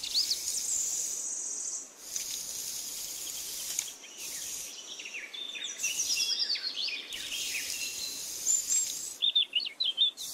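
Songbirds chirping and calling in quick, high sweeping notes over a steady hiss, with a rapid run of louder chirps near the end.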